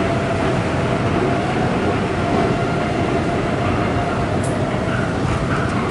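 Inclined elevator cab travelling along its inclined rails: a steady rumble with a steady hum, running evenly throughout.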